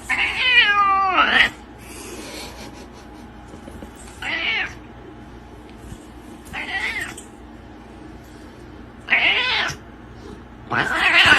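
A domestic cat meowing five times. The first call is long and wavers downward in pitch; the next four are shorter and come about two seconds apart.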